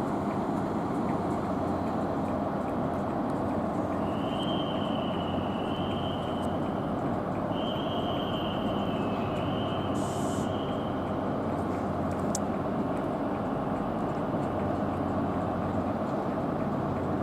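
Steady rumble and hum of trains standing at a railway station platform. A high tone is held twice for a few seconds near the middle, and there is a short hiss about ten seconds in.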